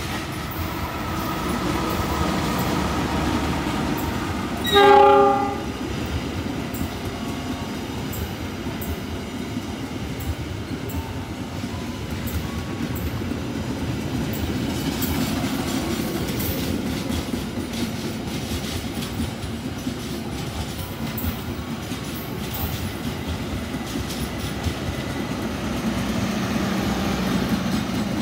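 Train passing, a steady rumble with wheels clattering over the rail joints, and one short blast of the locomotive horn about five seconds in.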